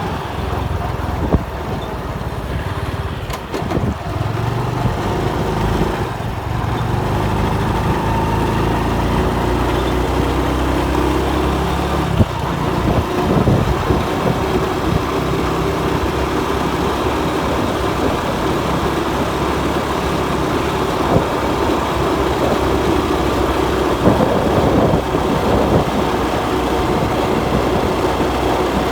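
Motorcycle engine running while riding along the road, its note shifting a little with the throttle, with road and wind rumble on the microphone.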